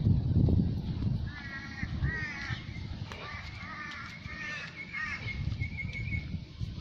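A bird calling a run of short, harsh, repeated notes for about five seconds. Underneath is a low rumble that is loudest in the first second.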